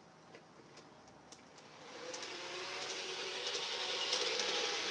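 Garden-railway model train running on its track and drawing closer: from about two seconds in, its running noise, a steady low tone with a hiss above it, grows steadily louder. A few faint clicks come before it.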